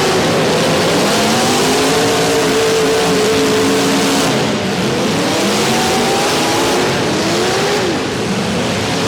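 Several demolition derby car engines revving and running at once, their pitches rising and falling against each other, over a loud, steady rushing noise.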